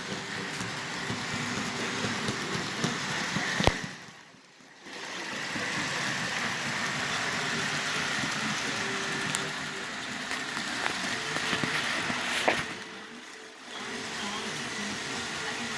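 HO scale Life-Like GP30 model diesel locomotives running on a layout: a steady electric motor hum with wheels rattling on the track. Twice, a sharp click is followed by a drop in the sound for about a second.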